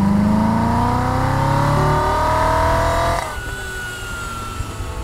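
Vehicle engine accelerating, its pitch rising steadily for about three seconds, then dropping off suddenly. A fainter high whine follows and slowly falls in pitch.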